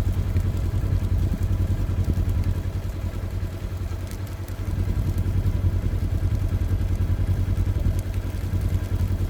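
A vehicle engine running steadily with a fast low pulsing, dipping slightly in loudness about halfway through.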